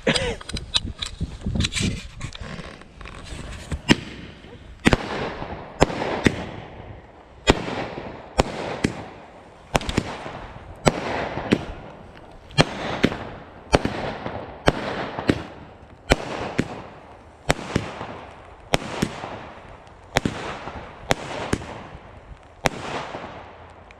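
A multi-shot fireworks cake firing shot after shot: sharp bangs about once a second, each followed by a short fading tail of noise.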